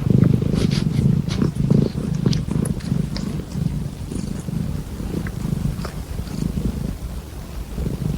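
A cat purring close up: a steady low rumble with faint light clicks over it.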